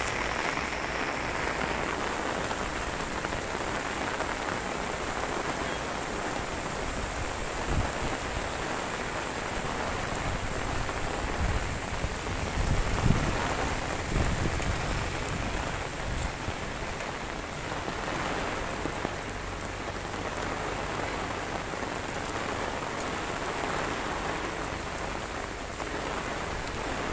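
Heavy rain falling, a steady hiss. There are a few low thumps around the middle.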